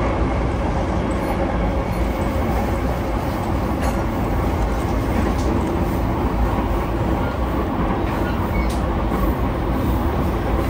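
Interior running noise of a JR E233-1000 series electric train at speed: a steady rumble of wheels on rail heard inside the passenger car, with faint steady tones above it and a couple of light clicks.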